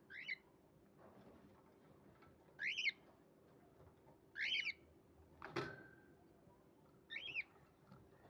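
Pet bird giving four short chirping calls, spaced about two seconds apart. A single sharp tap with a short ring sounds about halfway through.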